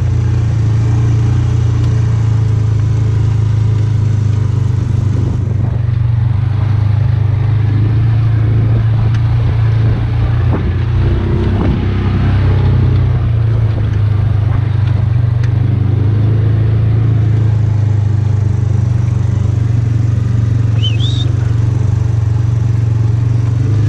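Polaris utility vehicle's engine running steadily with an even low drone. A short high chirp cuts in once near the end.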